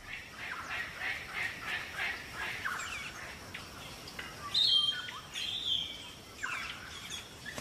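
Several birds calling at once: a steady run of short chirps and quick sweeping notes, with a louder, clearer whistled call a little past halfway.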